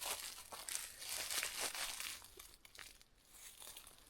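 Footsteps crunching and rustling through dry brush and ground, loudest in the first two seconds and fading toward the end.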